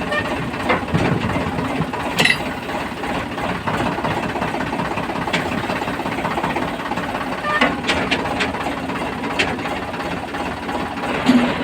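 Diesel engine of heavy machinery running steadily, with a few short sharp knocks over it.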